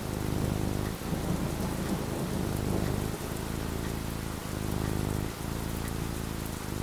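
Steady rain falling, with low rumbling thunder underneath.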